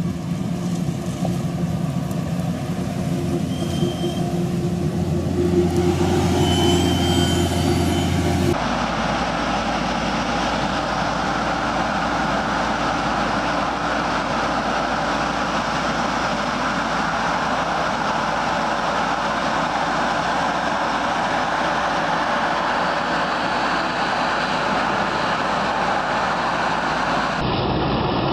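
Heavy farm machinery running: steady engine and machine noise that changes abruptly twice as different machines take over, the first with a low, even engine hum and the second a denser, rushing clatter.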